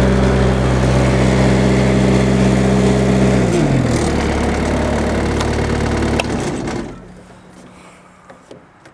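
The four-cylinder diesel engine of a Bobcat X331 mini excavator runs steadily at high revs. A bit over three seconds in its pitch drops as the engine slows. There is a click about six seconds in, and the engine sound falls away sharply near the end.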